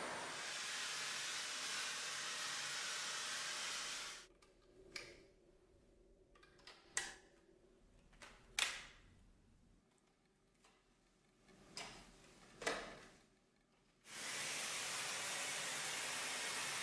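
Vacuum cleaner motor running with a steady hiss-like rush of air. It stops about four seconds in, and a quiet stretch follows with several sharp clicks and knocks. It comes back on abruptly about fourteen seconds in.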